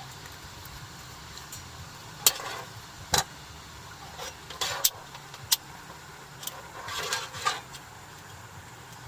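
Scattered knocks and clicks, like objects being handled, over a steady background hiss.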